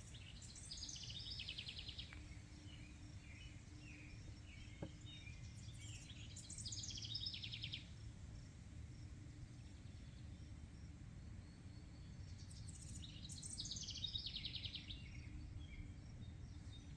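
A songbird singing three times, about six seconds apart: each phrase is a rapid trill of about a second and a half that falls in pitch. Under it runs a steady low background rumble.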